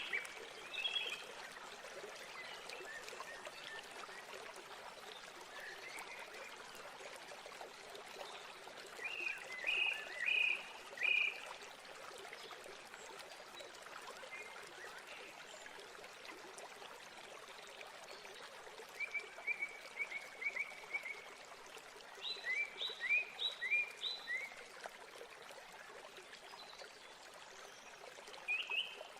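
Steady rush of a waterfall, with birds calling over it in several short bursts of quick repeated chirps, one of them a rapid even trill.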